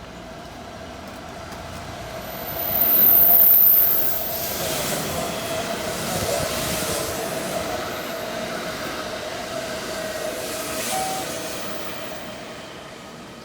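Electric train running past the station platform. Its running noise swells and then slowly fades, over a steady tone. A brief, loud, high-pitched wheel squeal comes about three seconds in.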